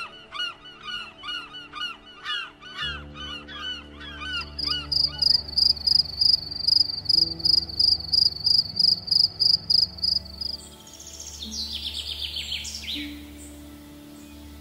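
Birds calling: a run of repeated call notes at about three a second, then a louder series of high, evenly spaced notes for some six seconds, then scattered chirps. A low steady drone sits underneath from about three seconds in.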